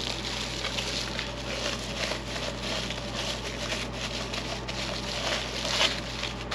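Continuous rustling and crackling with small irregular clicks, as packaging is handled while the parts are unpacked, over a steady low hum.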